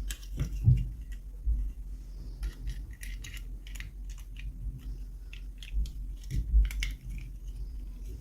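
Toy packaging being handled and opened by hand: irregular small crinkles and clicks, with a couple of soft thumps, about a second in and again near the end.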